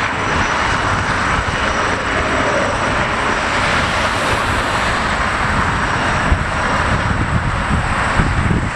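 Regional jet's turbofan engines at takeoff thrust, a steady jet noise as the plane departs.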